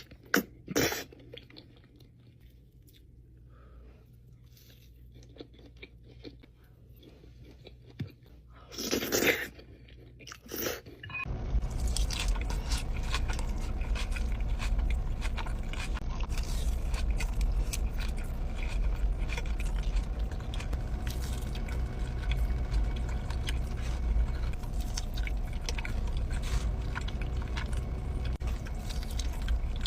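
Close-miked eating of crunchy food: a few separate crunching bites and chewing, then about 11 seconds in a louder, continuous stretch of dense crunching and chewing over a low rumble.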